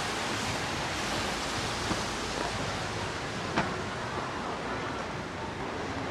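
Steady rain falling, an even hiss, with a single sharp tap about three and a half seconds in.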